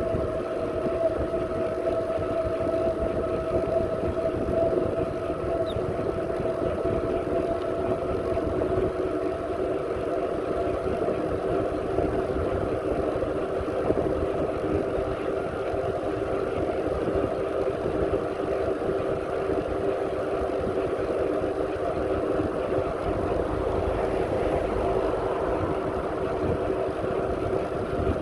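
Riding a bicycle: a steady whine made of several held tones over a low, buffeting wind rumble on the microphone.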